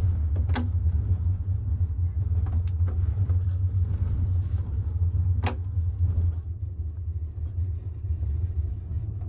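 Steady low rumble of a moving passenger train heard from inside the sleeper compartment, with two sharp clicks about half a second and five and a half seconds in.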